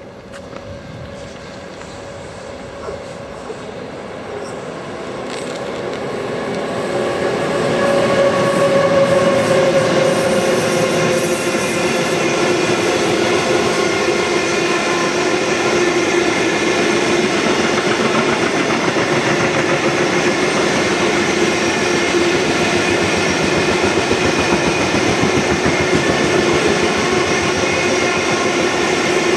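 A train approaching and passing close by on the main line. It grows louder over the first several seconds, then runs on as a steady, loud rush of wheels on rail with clickety-clack. A humming tone drops in pitch as it goes by.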